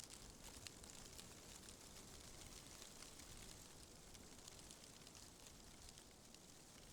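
Wind rustling tree leaves: a faint, steady hiss with many small crackling ticks.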